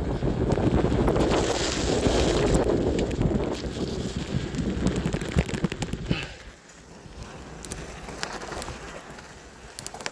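Wind buffeting the microphone of a moving electric bike on a rough track, with scattered clicks and knocks from the ride. About six seconds in it drops suddenly to a much quieter level.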